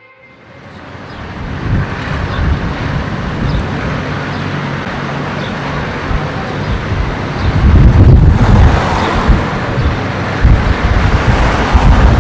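Wind buffeting the microphone over the low rumble of passing tractors, fading in and swelling in gusts about two-thirds of the way through.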